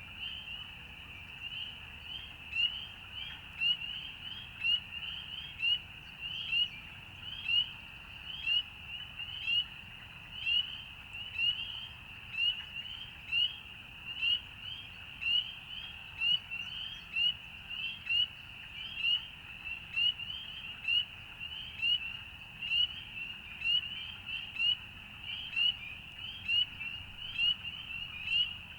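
Chorus of frogs calling: a dense, continuous mass of high, short rising peeps, with the nearest calls standing out about once a second.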